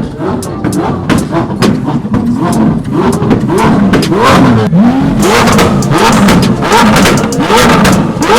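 Supercar engines revved hard over and over in short rising blips, about two a second, with sharp exhaust cracks between the revs, louder and busier from about five seconds in.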